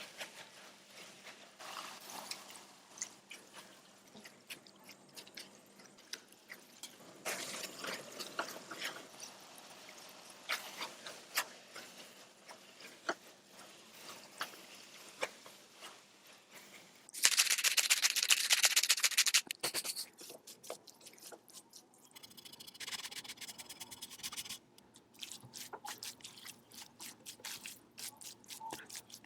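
Kitchen cooking sounds: scattered light clicks and knocks of utensils and dishes, with a loud crackling hiss lasting about two seconds starting about 17 seconds in.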